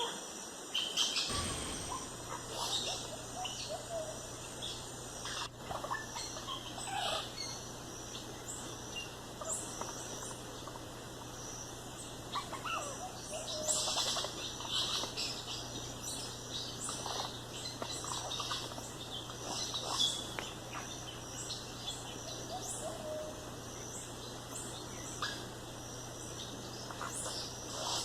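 Rainforest ambience: many short, scattered animal chirps and calls, mostly high-pitched, over a steady low hum that starts about a second in.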